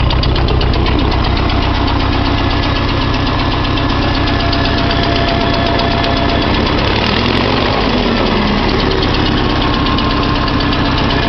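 1956 Farmall Cub's four-cylinder flathead engine idling steadily after a cold start.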